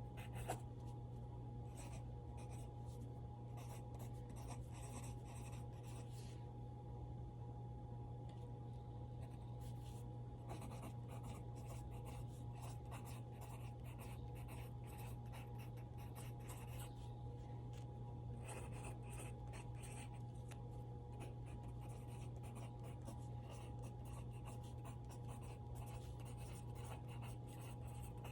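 Pencil writing on paper: a long run of short scratchy strokes over a steady low hum, with one sharp tap about half a second in.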